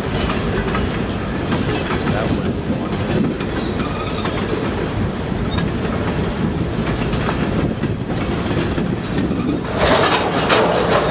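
Empty centerbeam flatcars of a CN freight train rolling past, with the steady noise of steel wheels on rail and repeated clicks of wheels over rail joints. The clatter grows louder about ten seconds in.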